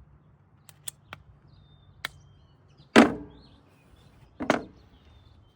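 Hand work fitting a new inline fuel filter onto a mower's fuel line: a few light clicks, then two louder knocks about a second and a half apart, each with a short ring.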